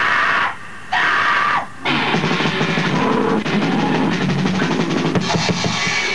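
Grindcore recording: three short, loud, distorted stabs, then a fast drum roll or blast beat under dense distortion for about four seconds, stopping abruptly at the end.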